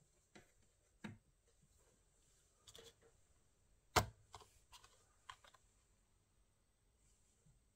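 Scattered clicks and taps of hands working on a laptop and its small plastic parts, with one sharp knock about four seconds in.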